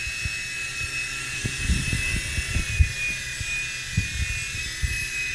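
Small indoor remote-control helicopter in flight, its electric motors and rotors giving a steady high whine, with uneven low buffeting on the microphone.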